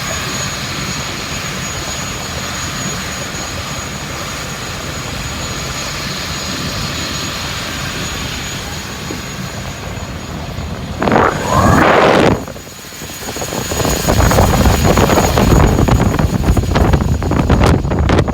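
Scania engine running steadily with a thin high whine. About eleven seconds in comes a short, loud burst that rises in pitch, and from about fourteen seconds the sound is louder and rougher.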